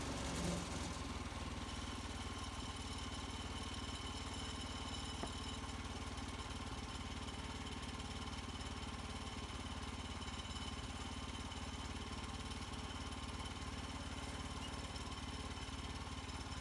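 HM130 Max portable bandsaw mill's gas engine running steadily.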